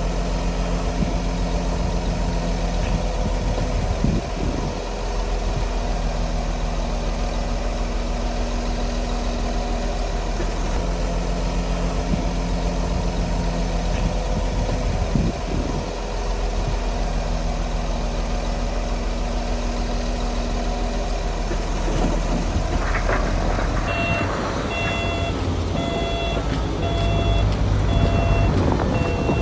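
Engine of a heavy earthmoving machine, a wheel loader or bulldozer, running steadily, its tone shifting every few seconds as it works. From about three-quarters of the way in, a reversing alarm beeps about once a second as the machine backs up.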